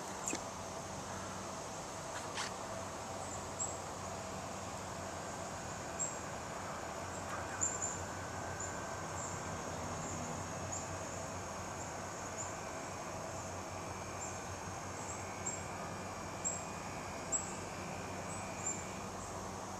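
Insects chirping in short, high chirps about once a second over a faint steady hum, with a few small clicks.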